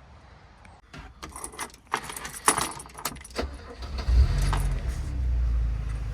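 Keys jangling and clicking in the ignition, then the 1993 Mercedes-Benz 230 GE's four-cylinder engine starts about four seconds in and settles into a steady, quiet idle.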